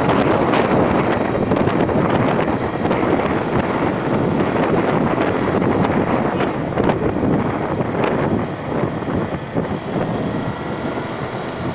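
Wind buffeting the microphone of a moving rider, a loud rough rush with vehicle noise underneath, easing a little in the last few seconds.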